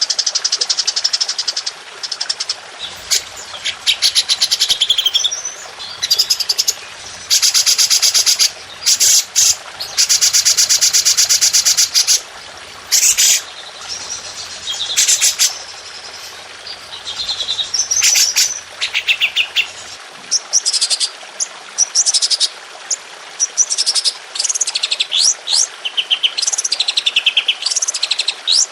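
Songbird song, with long, rapid-fire trill phrases ("tembakan") that come in blocks of a second or two. From about two-thirds of the way through, quick whistled notes slide downward in a fast run.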